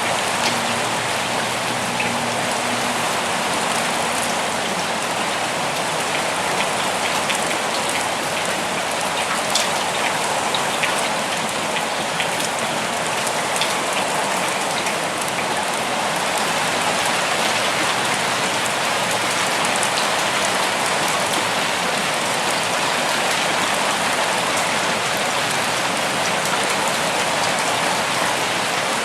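Steady rain falling, with scattered individual drops ticking close by, mostly in the first half.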